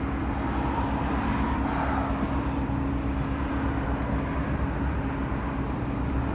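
Steady low hum of an engine running, even and unbroken.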